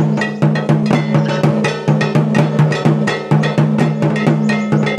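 Fast, loud festival drumming with sharp metallic clanging strikes, many beats a second, over a steady low drone: percussion accompanying a folk dance.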